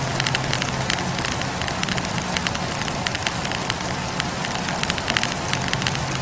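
Campfire burning, its wood crackling in many small irregular pops over a steady hiss. A low hum sits underneath; it fades through the middle and returns near the end.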